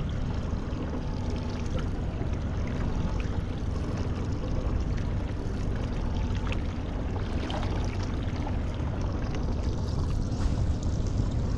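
Steady rush of water and wind noise out on the ocean, with a few faint ticks.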